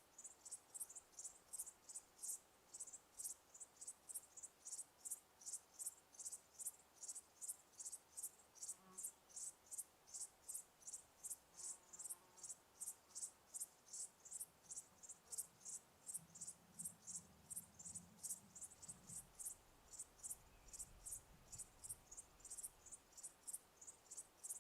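Cricket chirping faintly in an even rhythm, about two to three short high chirps a second.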